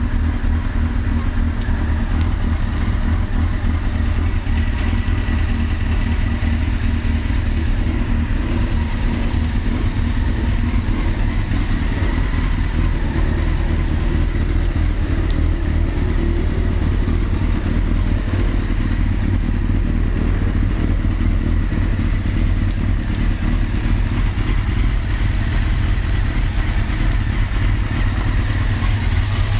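Honda CBR919RR's inline-four engine running steadily at idle through an Ixil aftermarket exhaust.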